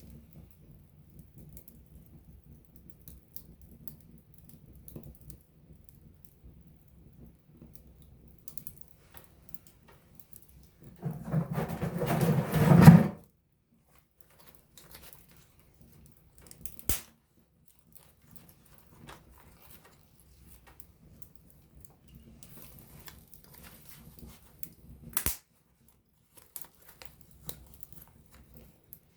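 Wood campfire burning with scattered small crackles and pops, a loud flurry of dense crackling lasting about two seconds near the middle, and two sharp single pops later on.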